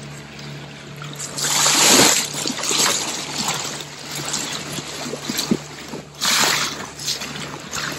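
Water splashing and rushing from Pacific white-sided dolphins surfacing close to a dinghy: a loud splash about a second in and another about six seconds in, with smaller splashes between, over a steady low hum of the dinghy's motor.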